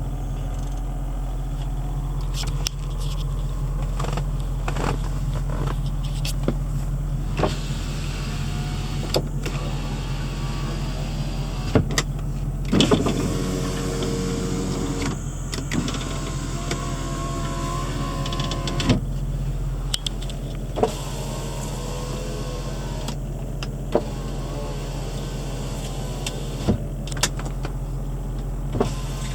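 2006 Range Rover Sport Supercharged's 4.2-litre supercharged V8 idling steadily after a cold start. Scattered sharp clicks come through the idle, and a few faint wavering tones are heard around the middle.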